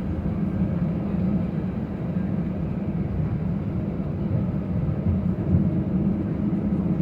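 Steady engine and airframe rumble of an Airbus A319-114 as heard from inside the cabin, with a constant low hum running under the noise.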